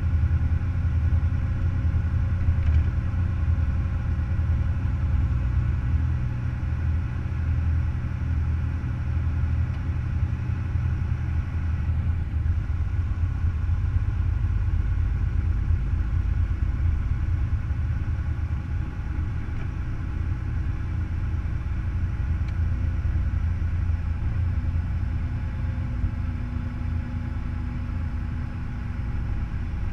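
Semi truck's diesel engine running steadily with a low, even rumble.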